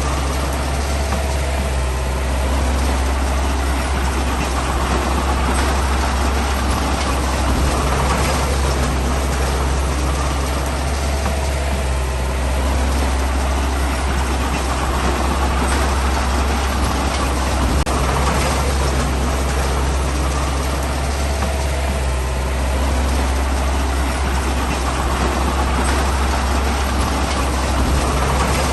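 Heavy diesel engine of a bulldozer running steadily with a deep, constant low hum.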